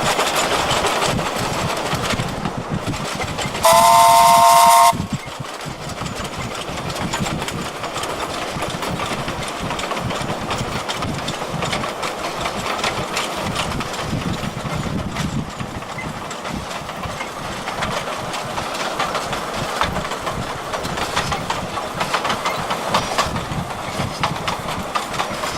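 Narrow-gauge steam locomotive running with its train, its exhaust beat and running noise steady throughout. About four seconds in it gives one loud chime whistle blast of a little over a second, several tones sounding together.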